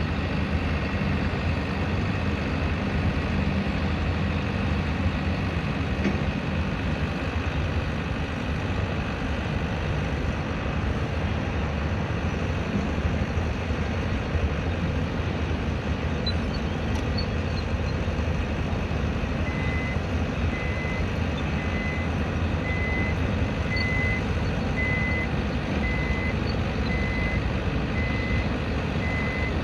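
Heavy construction-site machinery running steadily with a low engine hum. About two-thirds of the way in, a reversing alarm starts: one high beep about every second.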